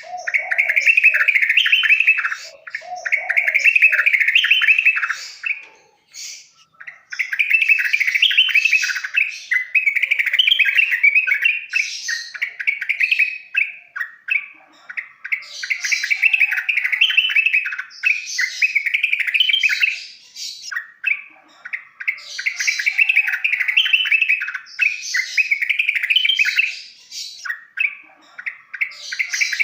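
Yellow-vented bulbul (trucukan) singing: a run of quick, bubbly chattering phrases, each a second or two long, repeated with short pauses between them.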